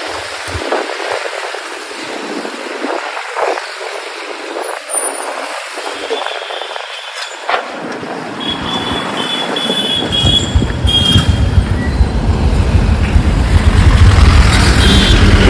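Street riding on a motorcycle: wind and road noise, with several short horn beeps in the middle and again near the end. From about two-thirds of the way in, a low rumble swells and grows louder as the bike picks up speed.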